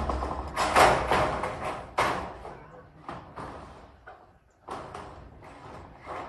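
Corrugated zinc roofing sheets banging and rattling during roofing work: a run of loud, irregular metallic impacts, strongest in the first two seconds, then lighter knocks.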